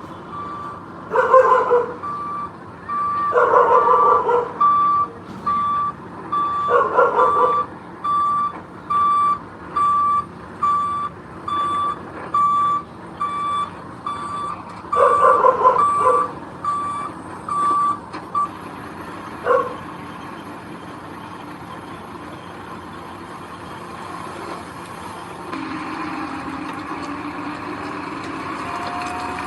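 Reversing alarm on a construction vehicle beeping steadily, about once a second, over a running diesel engine. The alarm stops about two-thirds of the way in, with several louder short bursts over the beeping before that. Near the end the engine gets louder.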